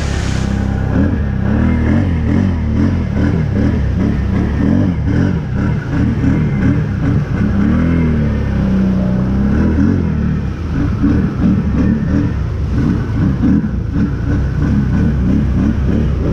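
Can-Am 1000's V-twin engine running hard, its revs rising and falling quickly, as it is driven through deep water.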